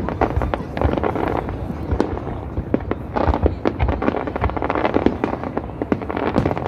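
Aerial fireworks display: many sharp bangs and crackling shell bursts in quick, overlapping succession, over a continuous low rumble.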